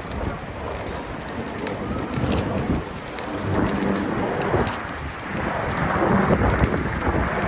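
Strong gusty wind buffeting the microphone in a low rumble, over a steady crackling hiss, swelling louder in the last few seconds.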